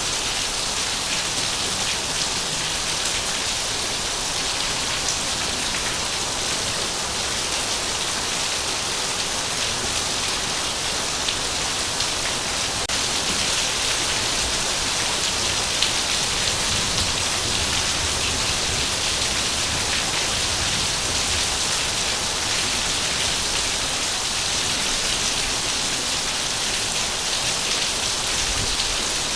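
Heavy rain falling steadily, a dense even hiss of rain on surfaces with scattered individual drop ticks.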